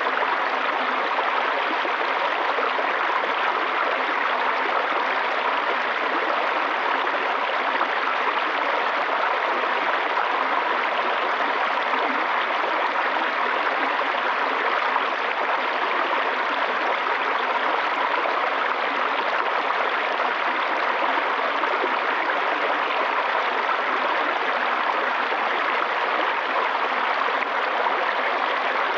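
Flowing water, a steady even rush with no breaks.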